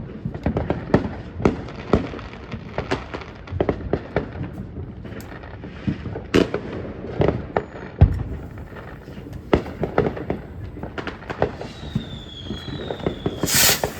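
Fireworks going off in irregular succession: many bangs and crackles, the sharpest about eight seconds in. Near the end a brief falling whistle, then a louder, longer burst.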